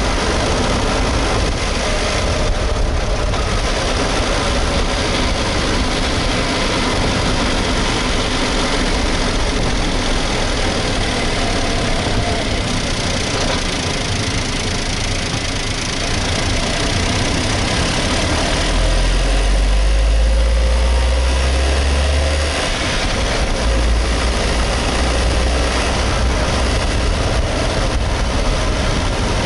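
Suzuki Hustler's small three-cylinder engine running steadily, with a deeper, louder rumble for a few seconds from about two-thirds of the way in. No distinct rattle stands out; the owner's suspected cause for that rattle is a loose exhaust manifold heat cover.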